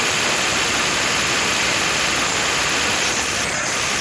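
Tractor engines running steadily and hard under heavy load, as tractors pull against each other in a tug-of-war.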